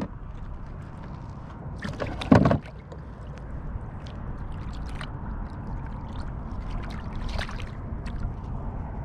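Sounds of a kayak on the water: steady low wind and water noise with small clicks and knocks from handling, and one short, loud splash about two seconds in as a redfish is released over the side.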